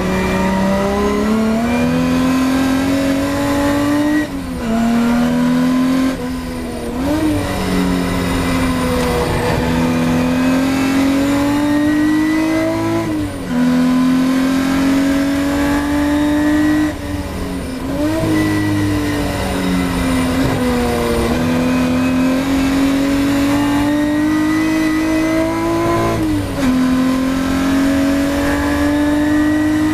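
Ford Capri V6 race car engine heard from inside the car, running at full throttle. Its note climbs steadily and drops sharply at each upshift, about 4, 13, 21 and 26 seconds in, with a couple of brief lifts off the throttle between.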